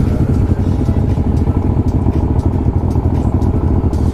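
Motorcycle engine running steadily at close range, with no revving.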